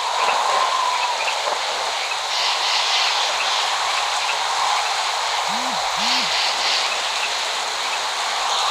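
Steady rain falling, an even hiss of heavy rainfall.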